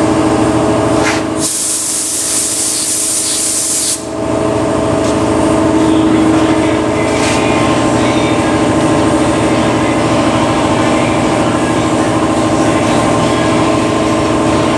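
Paint spray gun spraying primer in a hiss lasting about two and a half seconds, starting about a second and a half in, with a couple of short puffs a few seconds later. A steady machine hum runs underneath.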